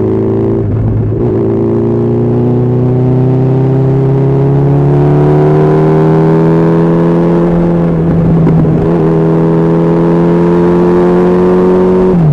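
Honda CB1300SF's inline-four engine pulling under acceleration at highway speed, its pitch climbing slowly, dropping with an upshift after about eight seconds and again near the end.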